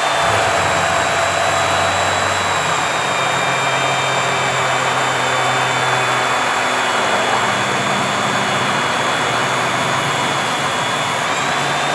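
Magnetic drilling machine's electric motor running steadily under power, a loud motor noise with a high whine.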